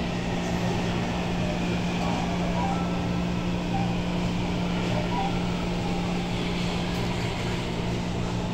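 Steady low engine drone with a constant rushing noise, unchanging throughout.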